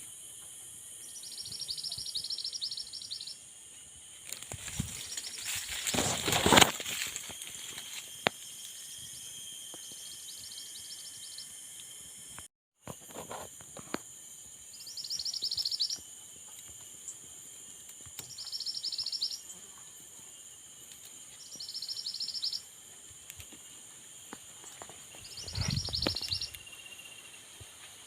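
A songbird repeating a high, buzzy trill, each phrase a second or two long, six times a few seconds apart, over a steady high-pitched background whine. A loud rustling noise comes about five seconds in.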